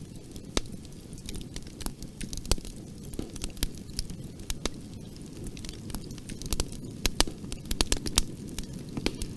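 Wood fire crackling, with irregular sharp pops and snaps over a steady low rumble of flames; the pops come thicker in the second half.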